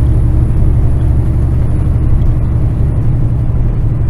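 Kenworth semi truck's diesel engine and road noise droning steadily while cruising at light throttle.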